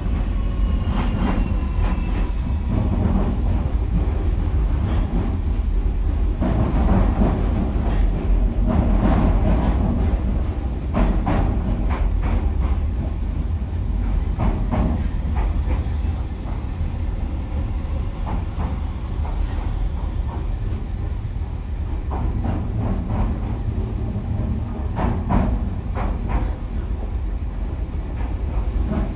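Running sound of a JR Kyushu 305 series electric train, recorded inside the motor car at speed: a steady low rumble with repeated sharp wheel clicks over rail joints.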